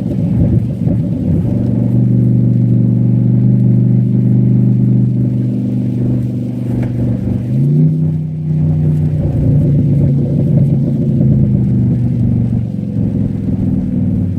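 Cadillac STS-V's supercharged V8 running under load at a steady speed. Its revs jump quickly about halfway through, then ease down a little near the end.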